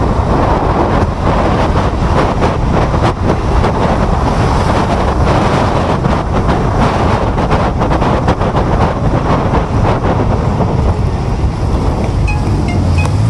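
Steady rush of wind buffeting the microphone, with road and traffic noise from a moving electric scooter.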